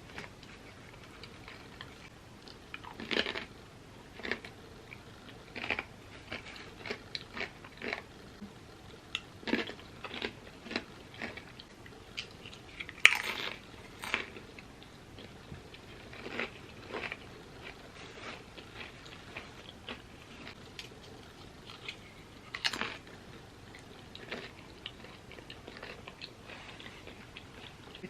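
A person biting into and chewing crunchy chips: irregular crisp crunches throughout, with a few louder bites, the loudest about halfway through.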